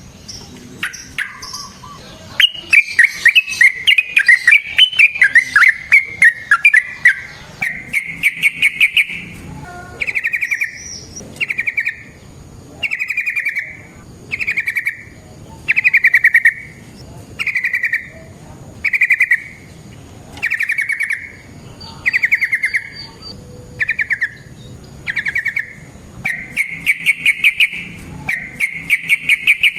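Yellow-vented bulbul (trucukan) singing. It gives a fast rattling run of notes, then a long series of short bubbling trilled phrases repeated about every second and a half, and another long run near the end.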